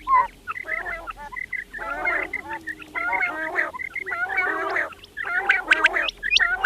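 Several quails calling over one another in dense bursts of chattering chirps, with sharp, high, quick notes near the end.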